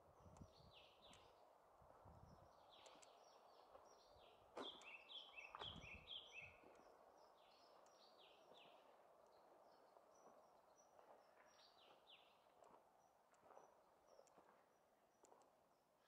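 Faint birdsong: small birds chirping in short falling notes in little groups, with a louder run of quick two-pitched chirps about halfway through. Soft footsteps on a forest path and a steady low background hum lie underneath.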